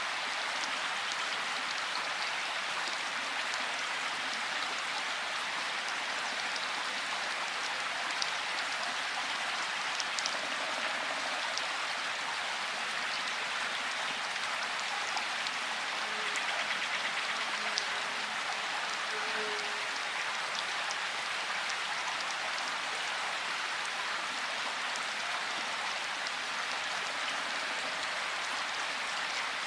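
Steady rain falling: a dense, even hiss of rain with scattered individual drops ticking through it.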